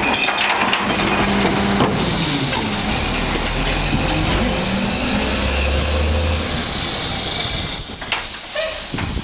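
Recycling truck's engine running steadily, with a stronger low drone for a second or so in the middle and a hiss of air near the end.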